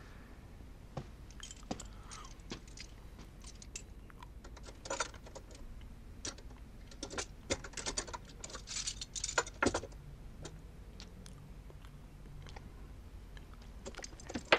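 Metal handcuffs being unlocked with a key and taken off: light metallic clicks and jingling, in a short cluster about five seconds in and a busier run of clicks a couple of seconds later.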